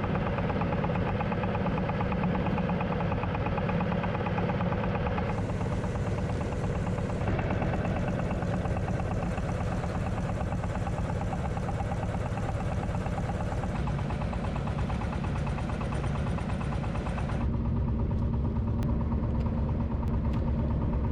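Fishing boat's engine running steadily, a low even drone whose tone changes abruptly a few times.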